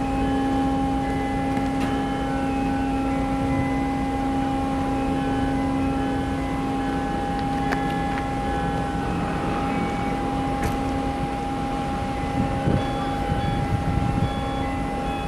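The car ferry Sunflower Gold's machinery running with a steady low drone and two constant hum tones. Short high tones at changing pitches come and go over it, like a faint tune.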